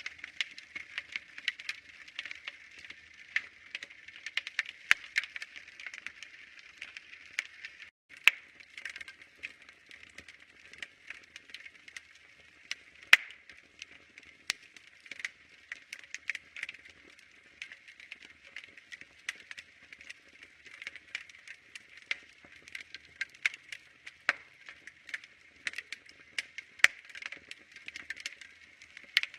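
Wood fire crackling in a fireplace: irregular sharp pops and snaps over a soft steady hiss. One loud pop comes about thirteen seconds in. The sound cuts out for a split second about eight seconds in.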